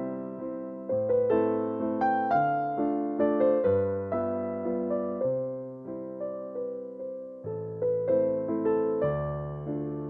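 Background music: a slow, gentle electric piano melody over held bass notes, each note struck and fading away.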